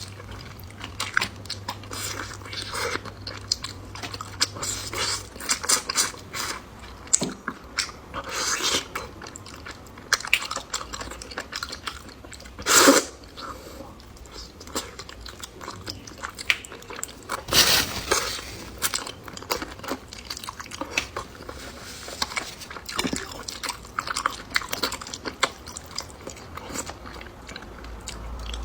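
A person chewing and biting food, with many small crunches and clicks and two louder bursts about 13 and 18 seconds in.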